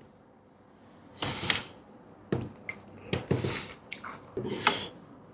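Close-up eating sounds of canned pineapple: a few wet, squishy bites and chews in short bursts, with quiet gaps between.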